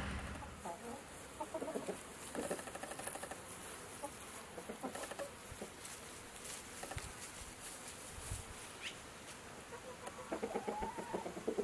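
Chickens clucking: a scatter of short clucks, with a denser run of clucking near the end.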